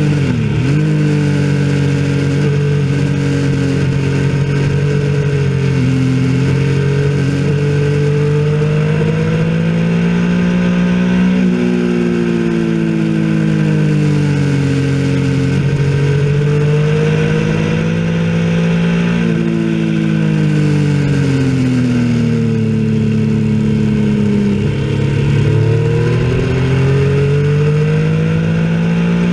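Motorcycle engine heard from on board, revving hard as it accelerates and slowing as it brakes into corners. Its pitch climbs for several seconds at a time and then drops, about four or five times.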